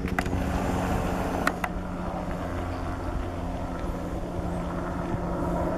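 Helicopter flying off: a steady drone of engine and rotors.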